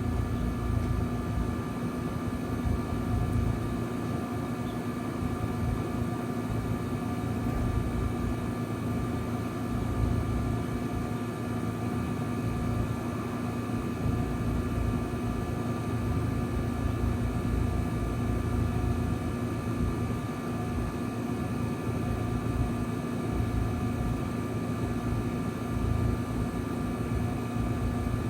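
Trane XL heat pump outdoor unit running in cool mode: a steady hum of the compressor and condenser fan with a few steady tones over an even whoosh of air, holding level without winding down.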